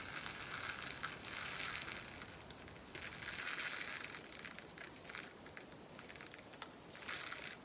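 Resin diamond-painting drills pouring out of a small plastic bag into a storage pot, with the bag crinkling: several stretches of fine rattling hiss, broken by small clicks.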